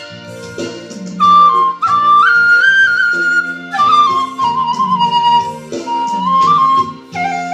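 Khlui, a Thai bamboo flute, playing a slow, held melody over a backing accompaniment with steady low notes.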